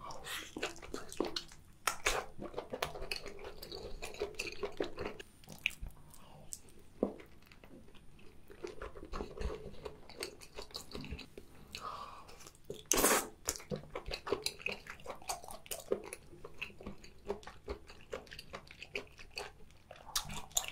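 Close-miked chewing of boiled octopus: a steady run of wet mouth clicks and chewing, with one louder click about thirteen seconds in.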